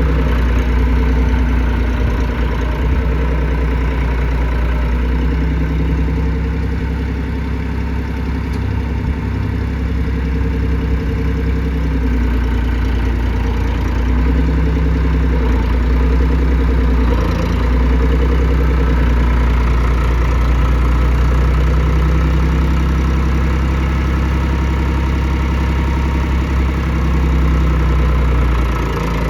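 International 484 tractor engine running steadily at idle.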